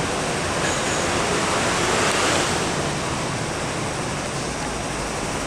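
MTR electric multiple-unit train running through the station without stopping: a steady rush of wheel-on-rail and running noise that swells to a peak about two seconds in, then eases off.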